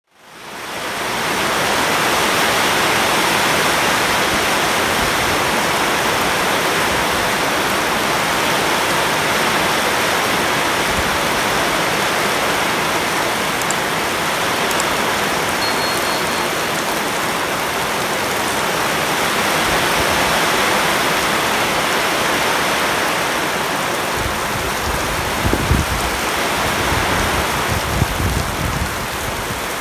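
Heavy rain falling steadily on dense leaves and standing flood water, fading in over the first second. A few low rumbles come near the end.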